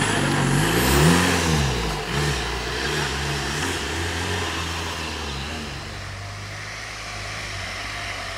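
Off-road competition 4x4's engine revving hard as it pulls away, the pitch rising and falling about a second in, then running steadier and fading by about six seconds in, leaving a quieter steady engine hum.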